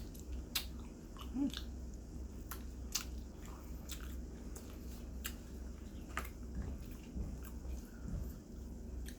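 A person chewing and biting food close to the microphone, with irregular small crunches and wet mouth clicks.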